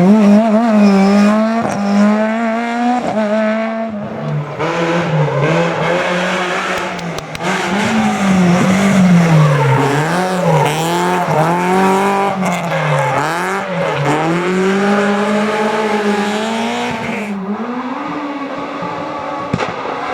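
Rally car engines being driven hard through a stage, revs rising and falling again and again through corners and gear changes. The sound changes abruptly about four seconds in and again near the end.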